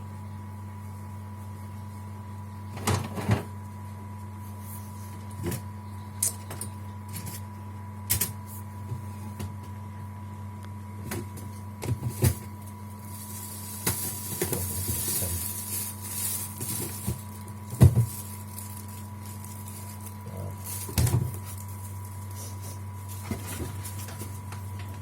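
Handling noise: scattered short clicks and light knocks of small objects being picked up, tapped and set down, about a dozen at irregular intervals, over a steady electrical hum, with a brief hiss near the middle.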